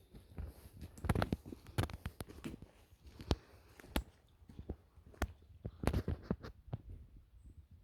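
Footsteps of a hiker on rough forest ground: a string of irregular sharp cracks and knocks, about one every half second to a second, like boots on twigs and stones.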